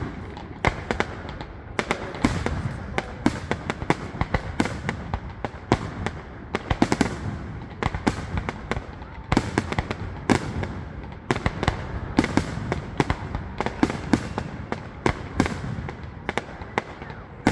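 Fireworks display going off in rapid succession: sharp bangs several times a second, overlapping with their echoes throughout.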